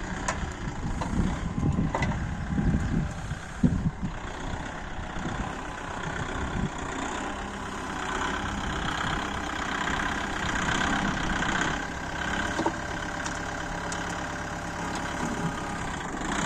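Tractor engine running under a manure-loading front loader, with irregular low thuds and one sharp knock in the first few seconds, then a steady running sound.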